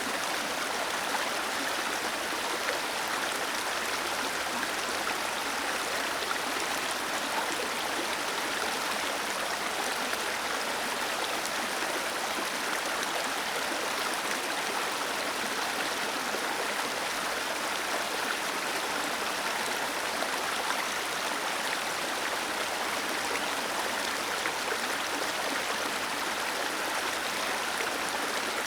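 Small waterfall cascading over rocks, a steady rushing of falling water with a bright, hissy spread and little deep rumble.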